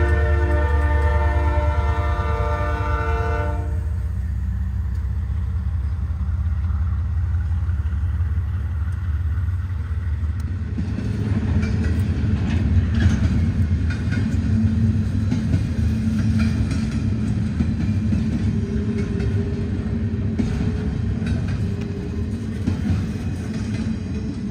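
A locomotive horn chord sounds for the first few seconds and cuts off, over the low rumble of a passing double-stack intermodal train. About eleven seconds in, the sound changes to the rolling clatter of double-stack well cars passing.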